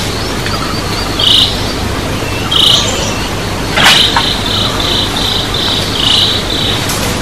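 Insect chirping in repeated short chirps, spaced out at first, then in a quicker run of about three a second, over steady background noise. There is one sharp click about four seconds in.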